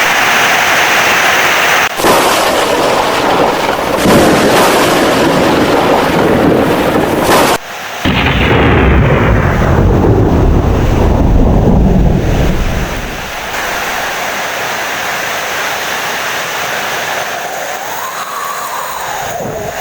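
Heavy rain with thunder. A long, deep rumble of thunder rolls through the middle and dies away about thirteen seconds in, leaving steadier, quieter rain.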